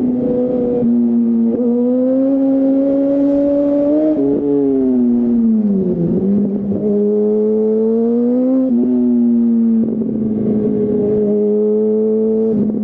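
2008 Yamaha R1's inline-four engine through a Termignoni full exhaust, pulling under throttle while riding. Its note climbs and drops several times, with short breaks in the sound about 1.5, 4.5 and 9 seconds in.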